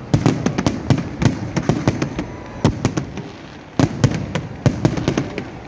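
New Year fireworks going off: many sharp cracks and booming bangs in quick irregular succession, some overlapping.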